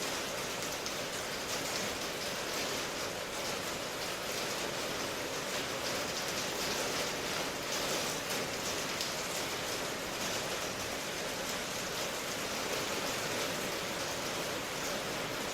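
Steady rain falling, an even hiss with fine patter of drops throughout.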